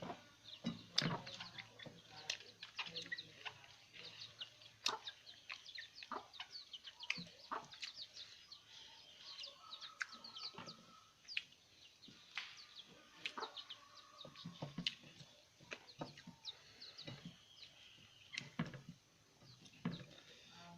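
Close-up eating sounds: irregular wet smacks and clicks of chewing and lip-smacking, many per second. Faint bird and chicken calls sit behind them.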